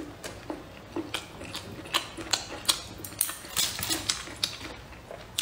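Close-miked eating sounds: a person chewing and smacking, a quick run of short wet clicks and crunches several times a second, busiest about three to four seconds in.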